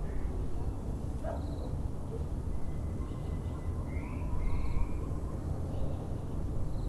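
Several birds calling over a steady low background rumble, among them a Muller's barbet, the bird heard through most of this recording; short high chirps repeat every two to three seconds.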